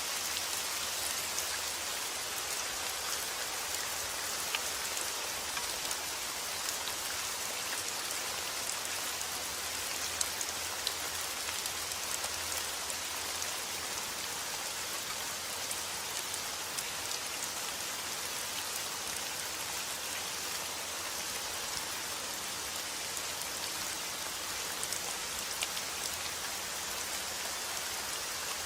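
Steady rain falling on a surface, an even hiss with many scattered small drop ticks.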